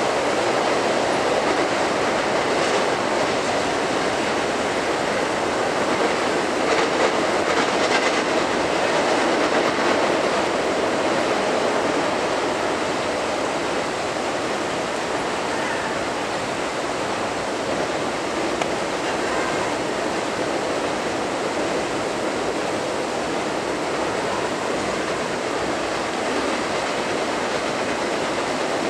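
Intermodal freight cars carrying highway trailers rolling across a steel truss bridge: a steady rumble and hiss of wheels on rail, with a few faint clicks.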